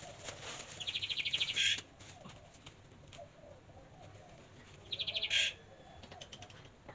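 A bird chirping: two short bursts of rapid, high chattering notes, about a second in and again about five seconds in.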